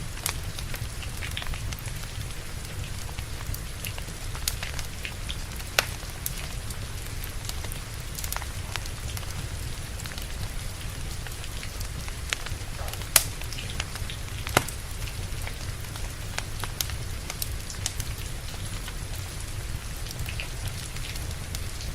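Steady rain with a low rumble underneath, while a wood fire crackles, with scattered sharp pops, the loudest about six seconds in and twice more near the middle.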